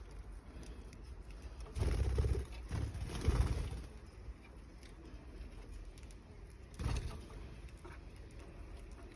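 Budgerigars calling in an aviary, with louder bursts about two, three and seven seconds in that carry a low rumble.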